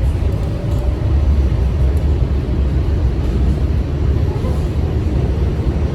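New York City subway train running between stations, a steady low rumble of wheels on rail and running gear, as heard from inside the car.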